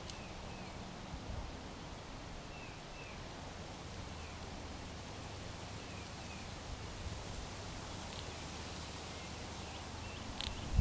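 Backyard birds calling with short, down-slurred chirps repeated every second or two over a steady low background hum, with a faint high trill and a sharp knock near the end.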